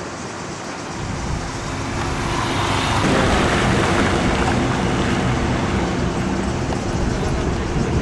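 A motor vehicle engine running with a steady hum, getting louder over the first few seconds and then holding level.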